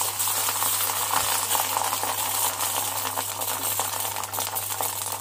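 Egg omelette with chutney mixed in sizzling in hot oil on a flat griddle: a steady, dense crackle of small spattering pops.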